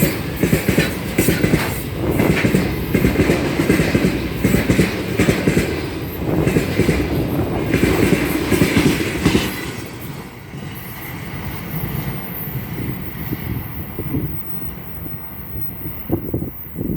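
Freight train rolling past, its wheels clattering over the rails with a steady clickety-clack. It is loud for about the first ten seconds, then quieter.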